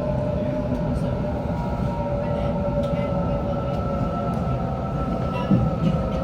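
Waratah A set electric train running at a steady speed, heard on board. The low rumble of the running gear carries a steady whine held at one pitch, with a few faint ticks and a brief knock about five and a half seconds in.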